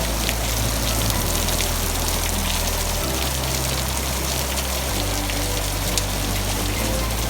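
Heavy rain pouring down steadily: a dense hiss of falling rain, with individual drops ticking on surfaces.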